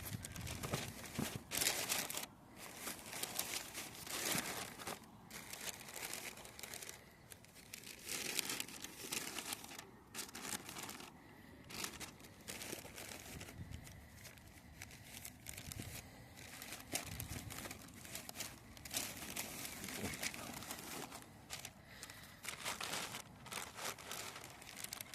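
Packaging being crinkled and torn open by hand, in irregular rustling bursts with short pauses between.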